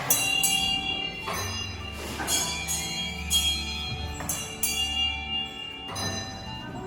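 Metal bells on hand-turned Tibetan prayer wheels ringing again and again, struck at uneven intervals so that their high rings overlap.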